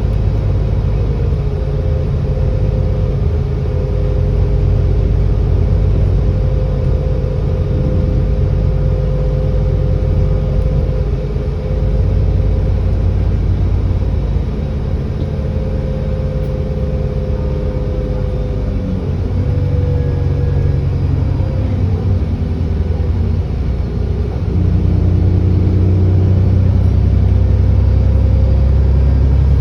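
ADL Enviro400 double-decker bus engine running under way, heard from on board, with a steady low note that shifts in pitch about two-thirds of the way through. It grows louder and deeper near the end as the bus pulls harder.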